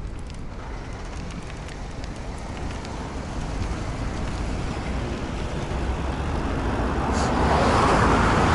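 Road vehicle approaching on the road, its tyre and engine noise growing steadily louder and loudest near the end.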